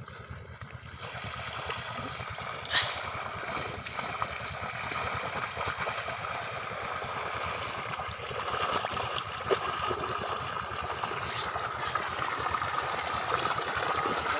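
Water gushing and gurgling out of an irrigation pipe fed by a diesel pump set, with the engine's steady low pulsing running beneath.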